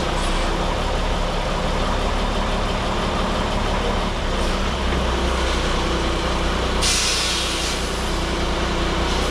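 Heavy diesel vehicle engine running steadily during loading onto a low-loader trailer, with a burst of air-brake hiss lasting about a second, around seven seconds in.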